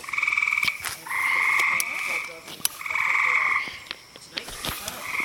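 A frog chorus: buzzy calls, each lasting most of a second, repeating about once a second, with a few sharp clicks in between.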